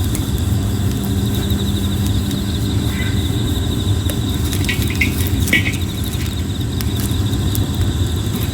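Red plum (ume) wood fire burning, with scattered sharp crackles and pops over a steady low rumble. Insects trill steadily in the background.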